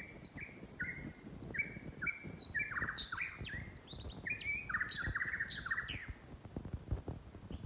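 White-rumped shama singing: a run of clear, downslurred whistled notes, then faster, more complex phrases with buzzy trills, ending about six seconds in. A low clutter of faint knocks and noise runs underneath.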